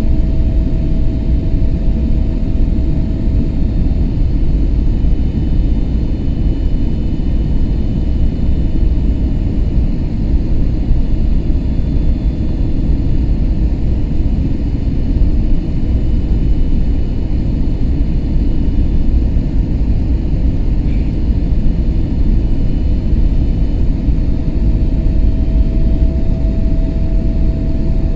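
Cabin noise of an Airbus A321neo: a steady low rumble of engines and airflow, with faint steady whining tones above it.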